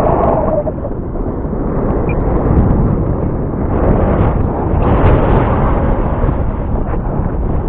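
Strong wind buffeting the microphone: a loud, uneven rumble that swells and eases in gusts. A steady whine, the RC plane's electric motor, fades out within the first second.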